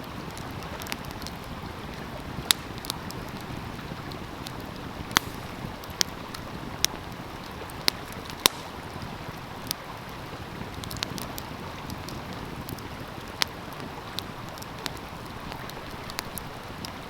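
Wood fire crackling with sharp, irregular pops and snaps over the steady rush of a flowing stream.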